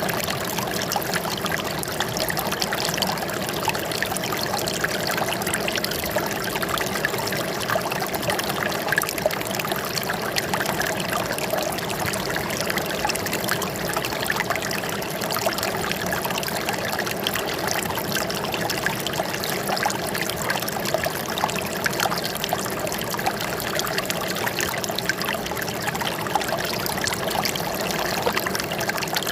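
Running water trickling and splashing steadily, like a small stream, with no change in level.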